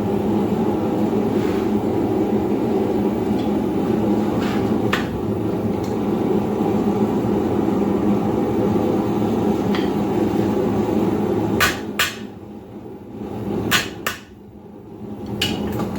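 A blacksmith's hammer strikes hot steel on an anvil a few times, widely spaced, over a steady roar. The roar eases off for a couple of seconds near the end.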